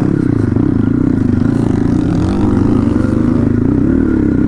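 Dirt bike engine running under way, its pitch rising and falling a little a few times as the throttle is worked.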